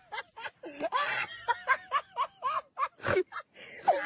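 A person laughing in a run of short, high-pitched bursts, about four or five a second, with a louder burst about three seconds in.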